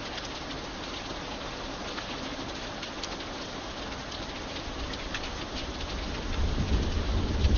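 Steady rain falling, with single drops ticking sharply on a hard surface. About six seconds in, a low rumble of thunder begins to swell.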